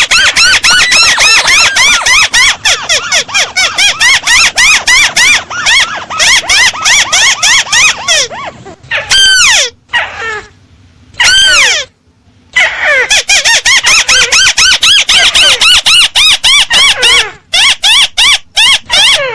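Bird-lure recording of a crake (burung tikusan) calling: long, rapid trills of short, arched, squealing notes, broken by brief pauses, with a few longer downward-sliding calls around the middle.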